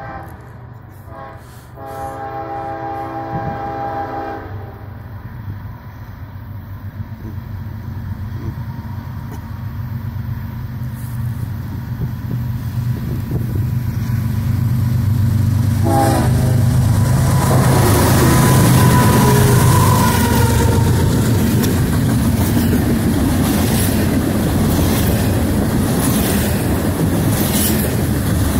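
The horn of a CSX freight train's lead GE diesel locomotive sounds several short blasts and then a longer one in the first few seconds, with a brief horn note again about sixteen seconds in. The diesel engines' rumble builds as the train approaches and passes. Double-stack container well cars then roll by with clattering wheels on the rails.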